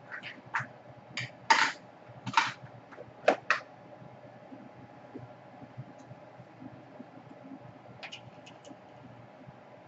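Small hard objects being handled on a workbench: a quick run of sharp clicks and taps over the first three and a half seconds, then a few light clicks about eight seconds in, over a faint steady hum.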